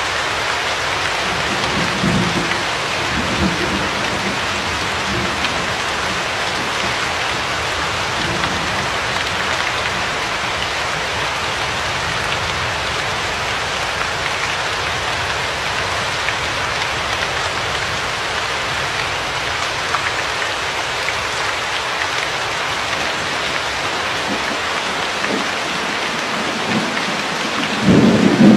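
Steady heavy rain falling. Faint low rumbles of thunder come about two to four seconds in, and a louder thunder rumble starts near the end.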